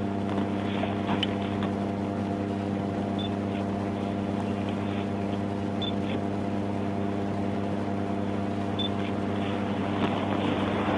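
Steady low hum of a running vehicle, holding several even pitches. A faint short high beep sounds three times, roughly every three seconds.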